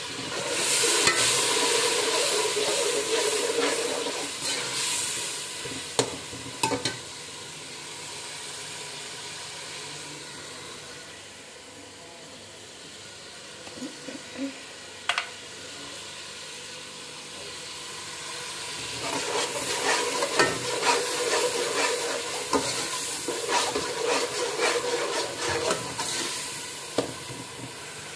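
Onion-and-tomato masala sizzling in oil in a pot, stirred and scraped with a steel slotted spoon in two spells of quick strokes, one near the start and a longer one in the second half, with quieter sizzling and a few single clicks between. The masala is being fried down with a splash of water so the tomatoes soften.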